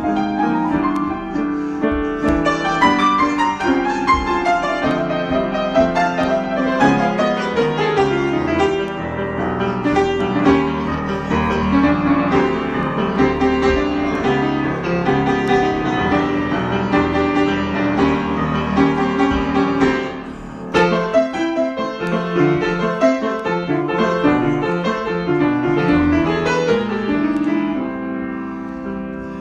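Solo piano improvisation: a dense, continuous run of notes and chords, with a brief pause about two-thirds of the way through and growing softer near the end.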